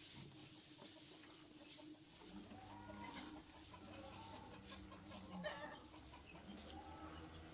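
Chickens clucking faintly, with long low drawn-out calls starting about two seconds in and again near the end.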